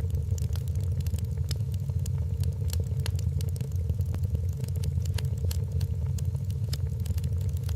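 Wood fire in a fireplace crackling, with many sharp irregular pops and snaps over a steady low rumble of the burning fire.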